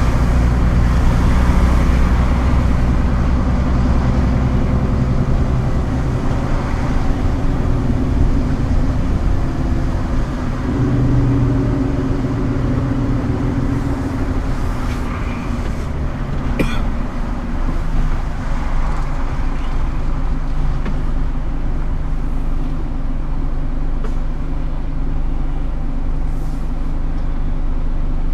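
Scania R410 truck's diesel engine running, its pitch shifting up and down several times, with a short click about two-thirds of the way through.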